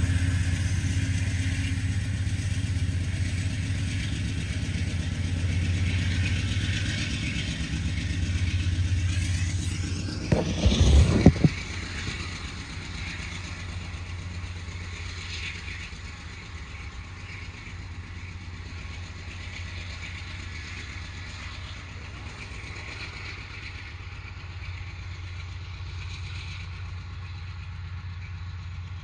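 Freight train's diesel locomotives running with a steady low engine drone as the train rolls past. About ten seconds in there is a brief, loud low rumble, after which the sound settles to a quieter steady rumble of the train going by.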